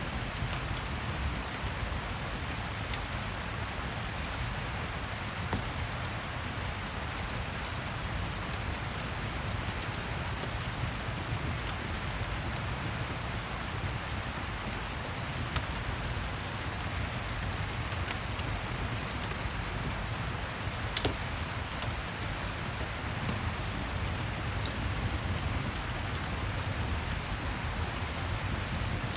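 Steady rain ambience with a wood fire crackling in a fireplace: an even hiss over a low rumble, broken by scattered small pops, one sharper pop about two-thirds of the way through.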